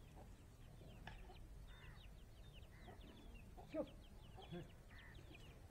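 Faint bird chirping: many short, high chirps repeating throughout, with a few lower clucks about two-thirds of the way in.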